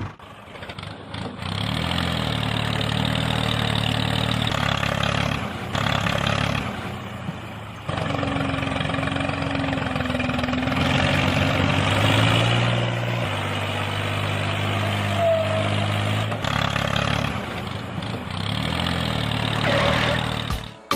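Engine running, its steady low drone stepping up and down in pitch several times, with a few brief breaks.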